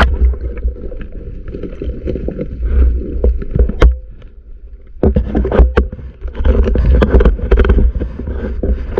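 Sea water rumbling and sloshing around the camera, with scattered sharp clicks and a brief quieter spell about four seconds in.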